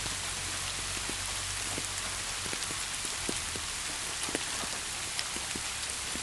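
Steady rain falling, an even hiss with many separate drops ticking and pattering on a surface.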